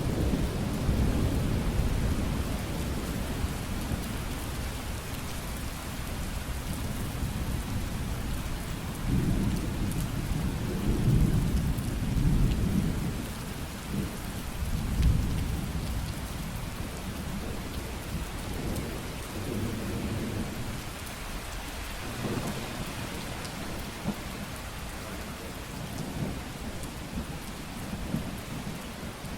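Steady rain hissing, with low thunder rumbling and swelling several times, loudest around the middle.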